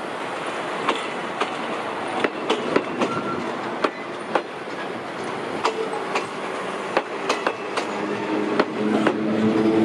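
Railway passenger coaches rolling past on the track, their wheels clacking irregularly over rail joints. A steady droning hum builds near the end.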